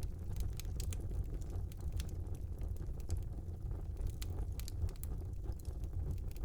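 Wood fire burning in a small fireplace: a steady low rumble of the flames with frequent sharp, irregular crackles and pops.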